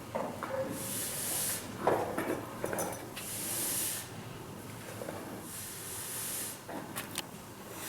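Hissing rustle of grain in bursts about a second long, roughly every two and a half seconds, with scattered knocks in between, as the Vikhr-2000U aeration fan's auger is worked into the grain heap.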